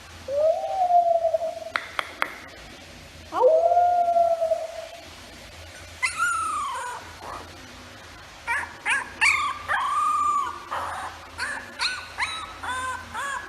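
A puppy howling in two long held calls, then a falling cry followed by a run of short, arching whimpers and yips.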